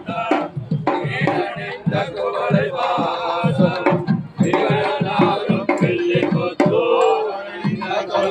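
Loud temple procession music: drums beating a quick, steady rhythm with a pitched melody playing over them.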